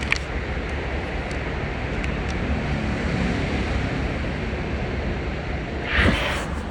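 Freight train rolling past: a steady rumble of wheels on rails with wind on the microphone, and a brief louder sound about six seconds in.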